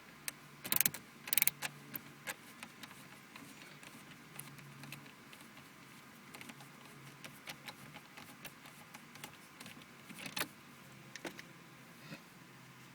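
Scattered small clicks and light rattles from a screwdriver and screws being worked out of a plastic dashboard HVAC control panel. The loudest clicks come in two quick clusters about a second in, with another sharp click near ten seconds.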